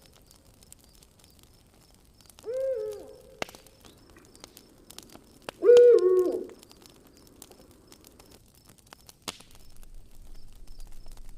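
An owl hoots twice, each a short call that steps down in pitch, the second louder. Scattered crackles and pops of a campfire sound between the calls.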